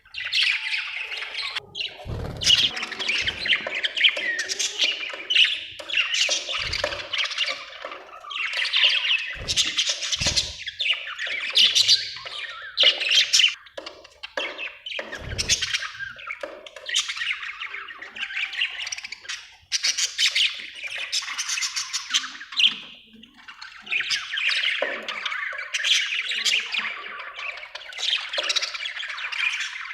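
Budgerigars chattering and squawking almost without pause, with a few short, dull knocks in between.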